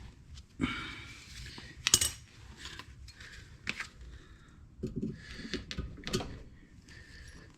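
Metal hand tools and suspension parts clinking and clanking as they are handled: a scatter of sharp metallic clicks, with the loudest clank about two seconds in and a quick run of knocks around five to six seconds.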